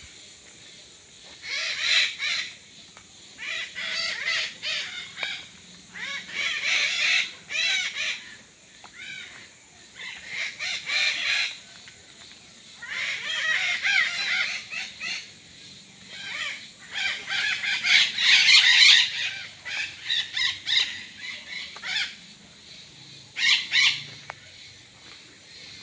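Parrots calling in repeated bursts of a second or two, with short lulls between them.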